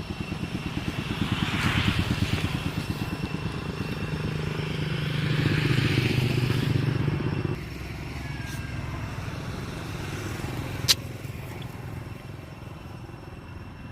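A small engine running with a fast, steady pulse, swelling louder twice and then easing off, with one sharp click about eleven seconds in.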